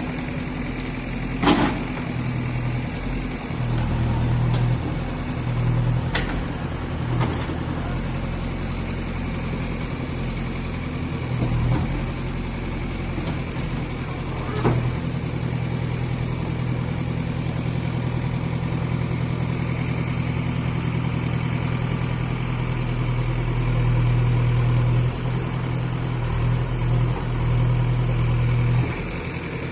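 JCB 3DX backhoe loader's diesel engine running steadily, its note swelling and easing several times as the machine works, with a few sharp metallic clanks.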